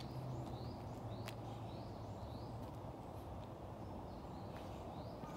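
A small bird calling a short rising chirp over and over, about two a second, with a pause midway, over a steady low background rumble.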